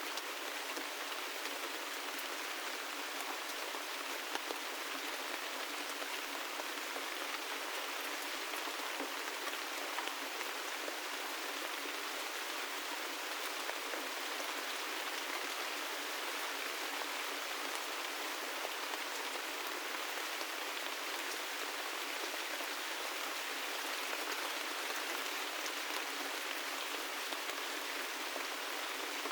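Gentle rain falling steadily: an even hiss scattered with many small drop ticks, with no change in strength.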